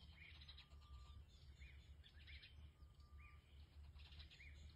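Near silence: faint bush ambience with short bird chirps repeating about once a second over a low rumble.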